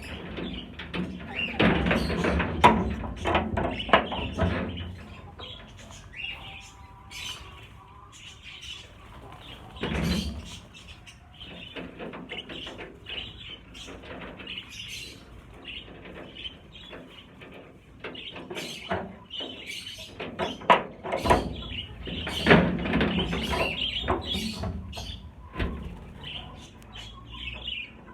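A flock of budgerigars chirping throughout, with repeated knocks and clatter from the cages being handled. The clatter is loudest in clusters near the start, about ten seconds in, and again after twenty seconds.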